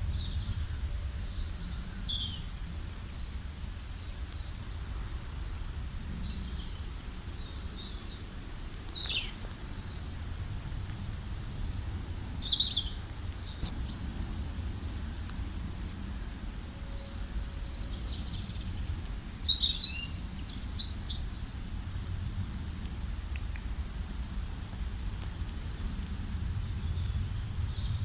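Wild birds chirping and calling in short, scattered phrases, busiest about a second in, around twelve seconds in and around twenty seconds in, over a steady low rumble.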